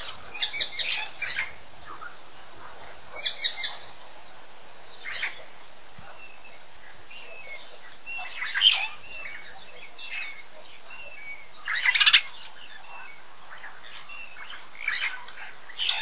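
Wild birds chirping in short, separate bursts, about six in all, the loudest a little past the middle and at about three-quarters of the way, over a steady hiss.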